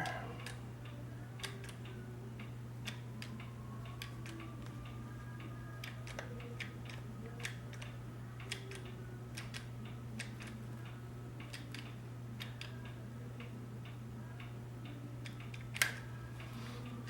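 Scattered faint ticks and clicks from hand work with a hot glue gun on a fabric dust bag, over a steady low hum, with one louder click near the end.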